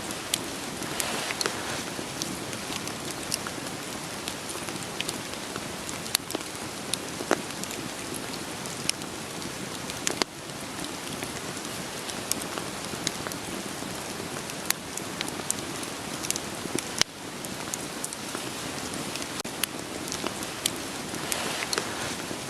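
Steady rain falling, layered with a wood fire crackling, with frequent sharp pops and snaps scattered through it.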